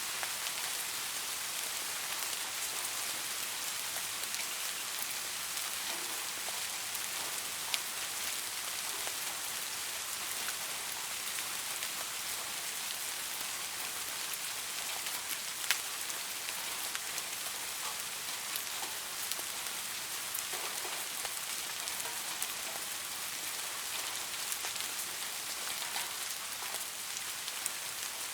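Rain falling steadily: an even hiss with scattered individual drops ticking through it, two of them sharper, about 8 and 16 seconds in.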